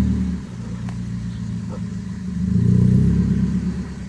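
Off-road 4x4 vehicle's engine revving under load while crawling an obstacle. It eases off about half a second in, then revs up again near the three-second mark.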